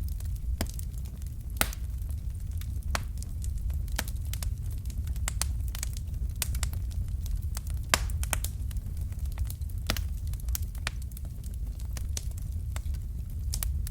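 Fire crackling in a fireplace: irregular sharp snaps and pops, several a second, a few louder than the rest, over a steady low rumble.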